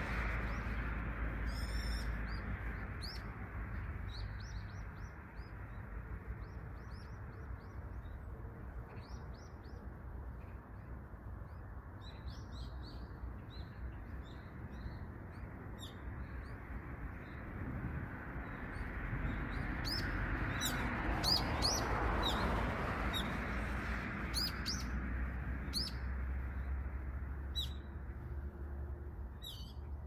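Small birds chirping, with short high calls scattered throughout and coming thickest in the last third, over a steady low rush of background noise.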